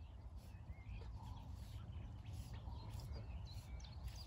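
Songbirds chirping, many short high notes, over a low rumble of wind buffeting the microphone.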